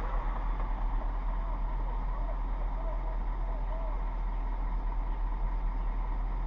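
Vehicle engine idling: a steady low rumble, with faint voices in the background.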